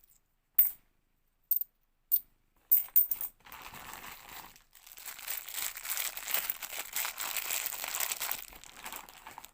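50p coins clinking as they are handled, a few separate clicks, followed by a long stretch of a plastic coin bag crinkling and rustling.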